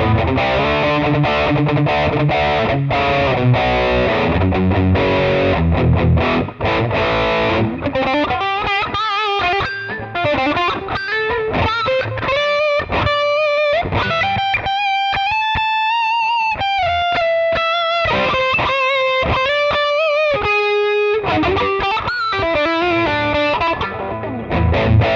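Florenze SG-style electric guitar played through distortion: dense chords for the first several seconds, then a single-note lead line with held notes and a bend, and back to chords near the end.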